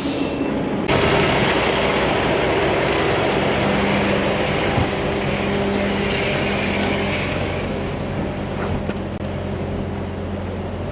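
Heavy truck's diesel engine running steadily, with a loud even rushing noise over it that starts about a second in and fades after several seconds. A reversing beep sounds once right at the start.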